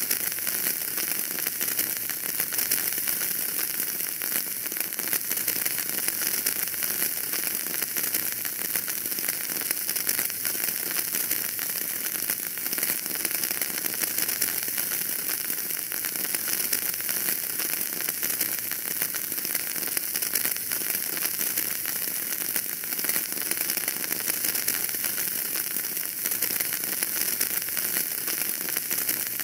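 Wood fire burning in a fireplace: a steady hiss thick with small, fast crackles and pops, even throughout with no single loud snap standing out.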